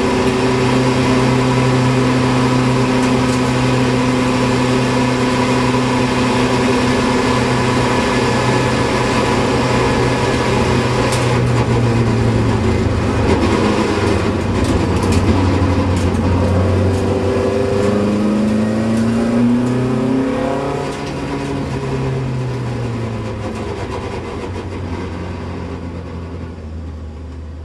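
Onboard sound of a racing Opel Kadett C's engine pulling hard at high revs up a hillclimb, with the note dropping about twelve seconds in, a few quick rising revs near twenty seconds, and a few sharp ticks in between. The engine sound then fades out near the end.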